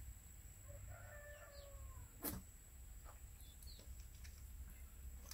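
Near silence with a faint distant bird call a little after a second in, and a single sharp click a little past two seconds.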